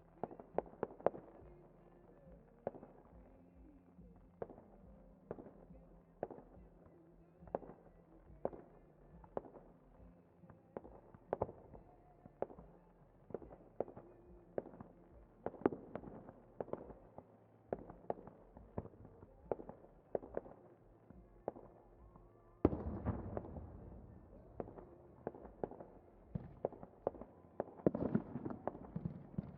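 Fireworks display: a steady run of sharp bangs, one or two a second. About three-quarters of the way through, a louder, denser barrage of booms and crackling sets in.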